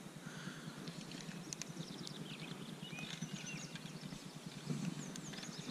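Faint birdsong: many short, high chirps and twitters from several birds, scattered throughout.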